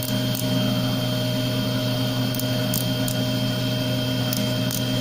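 Small CNC cylindrical grinder's motors running steadily at idle between cuts, a constant hum with a thin high whine. A few faint high ticks now and then.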